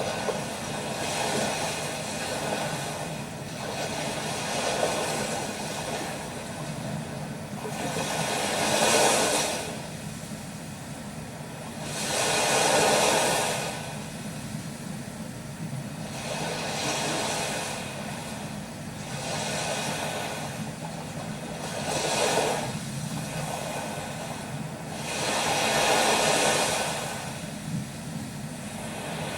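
Rushing noise that swells and fades about every four seconds, each swell brighter and louder than the steady hiss between them.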